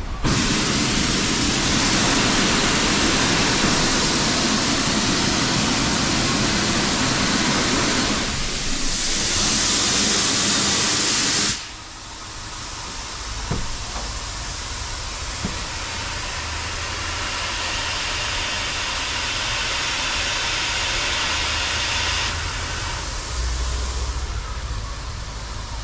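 Steam-hauled heritage train: a loud steady hiss that cuts off suddenly about halfway, followed by the quieter low rumble of the train running.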